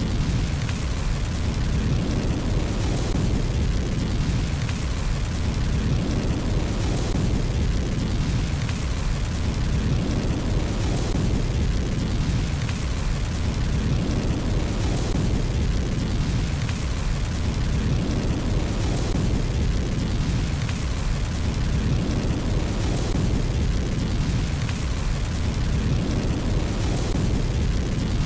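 Fireplace fire sound: a steady low rushing noise with light crackles on top, the pattern repeating every few seconds like a loop.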